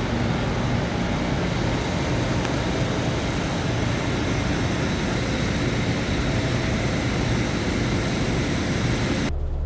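Steady rushing road and wind noise of a semi-truck travelling at speed. Near the end it cuts abruptly to a quieter, steady low engine hum.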